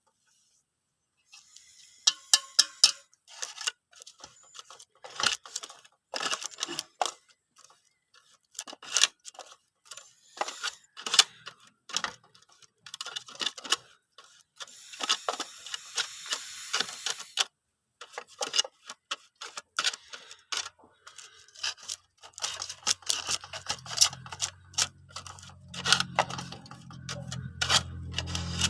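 Irregular clicks, knocks and rattles of hard parts being handled, with short scraping stretches. Near the end the low, steady hum of the coconut-grating machine's motor builds up.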